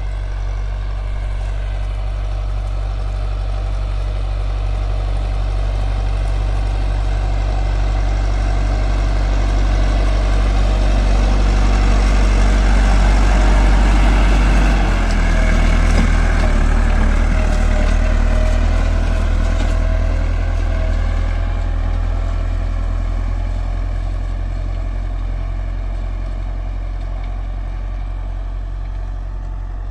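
Massey Ferguson 385 tractor's diesel engine running steadily while pulling a disc harrow, growing louder towards the middle and fading again afterwards, its note changing about halfway through.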